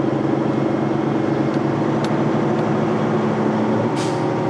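Semi truck's diesel engine running steadily, heard inside the cab, with a short hiss about four seconds in.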